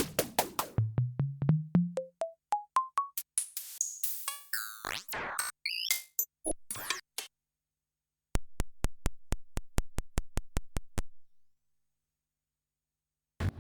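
Kurzweil K2000 synthesizer playing a raw factory percussion program. Short electronic hits step upward in pitch note by note, then sweeping, chirping effect tones. Near the middle a run of about six even clicks a second stops, and silence follows until a new hit near the end.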